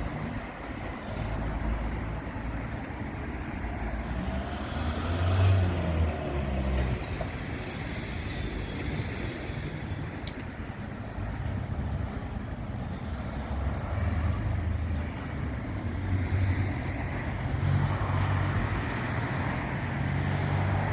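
Motor vehicle running: a steady low engine rumble with road noise over it.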